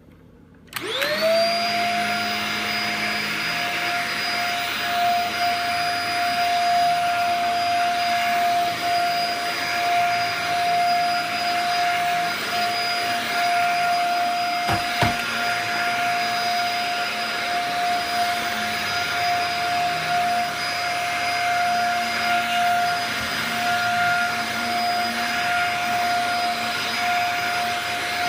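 Dyson DC50 compact upright vacuum cleaner switched on, its motor spinning up to a steady high whine within about a second, then running steadily with a hiss of suction while vacuuming. A single knock sounds about halfway through.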